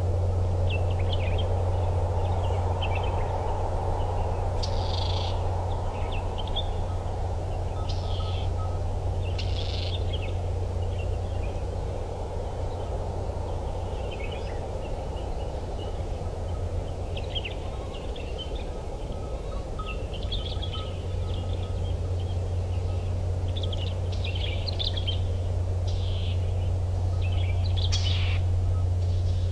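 Small birds chirping and calling again and again over a steady low drone.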